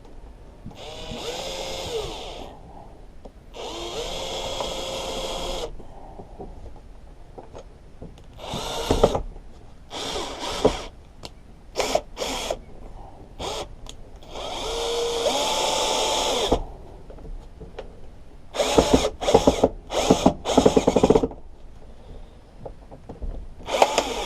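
Cordless power driver running screws in, in bursts: three longer runs with the motor pitch rising as it spins up, and a string of short trigger blips in between.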